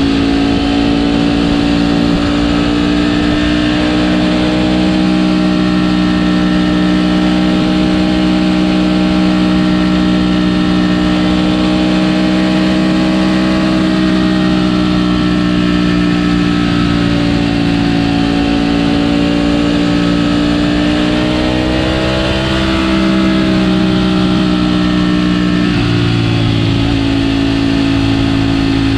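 Ducati Panigale V4 S's V4 engine through its stock exhaust, running at a steady cruise; the engine note rises a little about three-quarters of the way through, then drops back.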